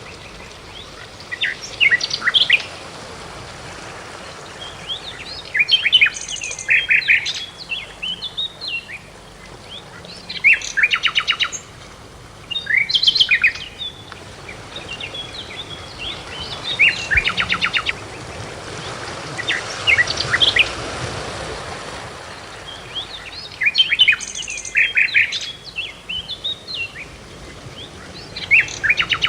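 Songbird singing: short phrases of quick, varied chirps and trills, repeated every few seconds over a faint steady hiss.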